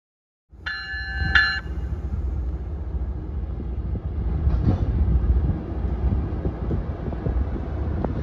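MBTA commuter rail train pulling into the station cab car first: a short horn blast of about a second, several notes at once, sounds just after the start, then the steady low rumble of the train rolling in.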